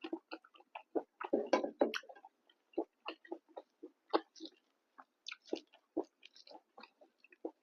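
Close-miked chewing of food: an irregular run of short wet mouth clicks and smacks, several a second, with a louder cluster about one and a half seconds in.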